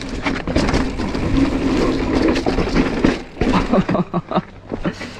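Mountain bike rattling and clattering as it rides down a rough, rocky trail, with many quick knocks from the frame and drivetrain and a low rumble of wind on the microphone.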